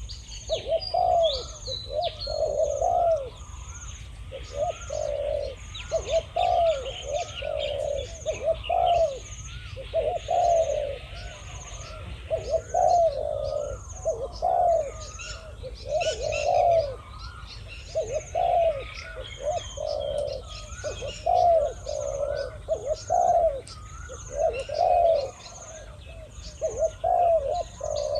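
Spotted doves cooing back and forth, a decoy male and a wild male answering each other in repeated low coo phrases with hardly a pause. A thin high chirp repeats steadily behind them.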